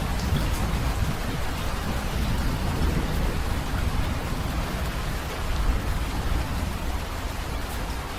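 Steady rain falling, with a low rumble of thunder that slowly fades away across the first few seconds.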